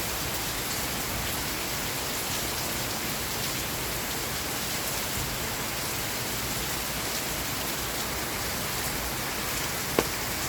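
Steady, even rainfall, with a single sharp tap near the end.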